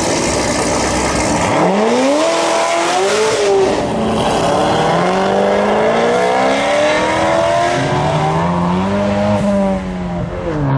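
A car engine revving hard and accelerating. Its pitch climbs steeply about a second and a half in, then rises and falls several times over a rushing noise.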